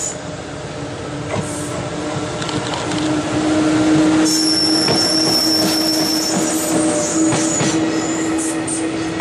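JR Freight EF66 electric locomotive pulling away with a container freight train and passing close by, its steady hum rising slightly in pitch, loudest as the locomotive goes past about four seconds in. The container wagons then roll by with a high wheel squeal lasting about two seconds, and wheel and coupling noise continues behind it.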